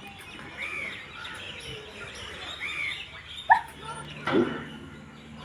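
Birds chirping in short arched calls, twice. About three and a half seconds in there is a sharp knock, the loudest moment, and then a brief lower sound.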